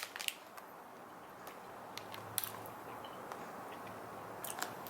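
Quiet chewing of a soft bubblegum: a few faint, sharp wet mouth clicks spread over about five seconds, over low room hiss.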